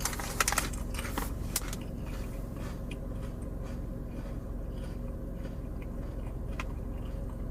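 Steady low hum inside a car's cabin, with a quick run of crackles and clicks in the first second and a half and faint scattered ticks after.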